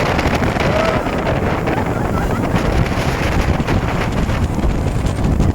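Wind buffeting the microphone on a moving speedboat, over the steady rush of the boat's engine and the water beneath the hull.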